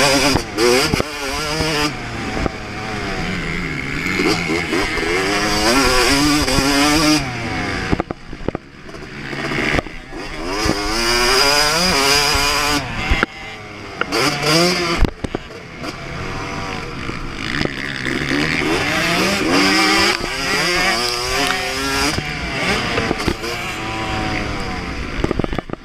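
2024 Yamaha YZ250 two-stroke motocross bike ridden at full throttle, the engine revving up and falling back again and again through the gears, with a few brief throttle closures.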